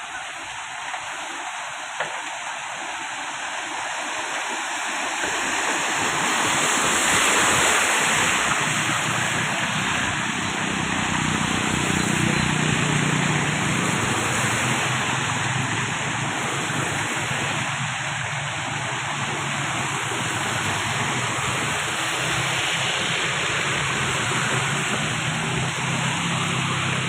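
Steady rushing hiss of rain and running water, swelling around seven seconds in. A low steady hum joins from about ten seconds in.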